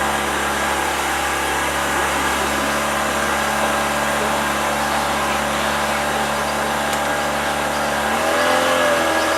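Tour boat's engine running steadily; its note changes and gets a little louder about eight seconds in.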